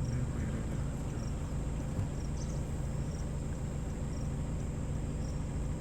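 Short high insect chirps repeating about once or twice a second over a steady low hum from a stopped vehicle's idling engine.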